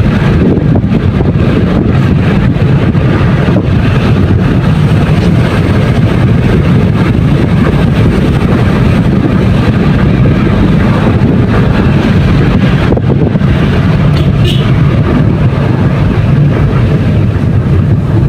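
A vehicle running steadily, a loud low rumble with wind buffeting the microphone.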